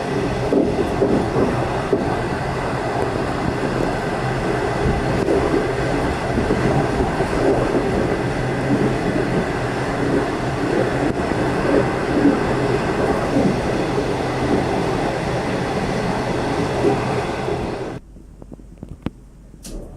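Steady running noise of a moving V/Line locomotive-hauled passenger train: wheels rumbling on the rails. It drops away abruptly near the end, leaving a much quieter background with a few clicks.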